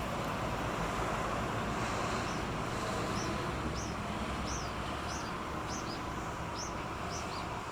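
A small bird giving a series of about ten short, high chirps, starting about two seconds in, over a steady background rumble of traffic and engines.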